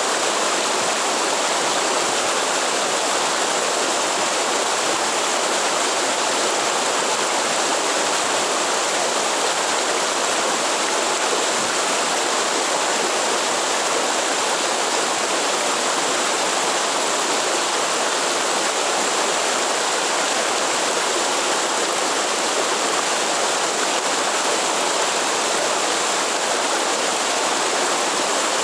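Waterfall in the Atlantic Forest: water falling and rushing in an even, unbroken hiss.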